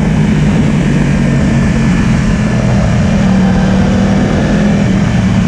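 Yamaha R1 motorcycle engine running at a steady pitch over a steady rush of noise, rising slightly about two seconds in.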